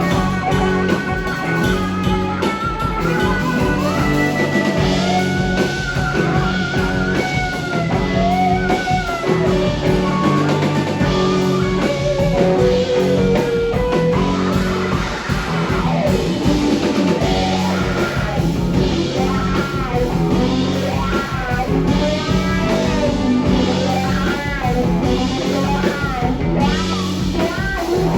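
Live rock band playing: an electric guitar lead with bending, gliding notes over bass and a drum kit.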